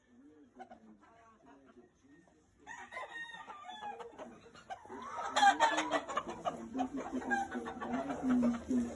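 Gamefowl roosters crowing and clucking. The calls start faintly about a third of the way in and grow much louder from about halfway.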